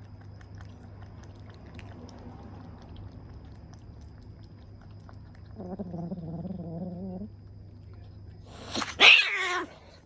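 Kitten vocalising: a low, wavering drawn-out call about six seconds in, then a louder, higher meow near the end that falls in pitch.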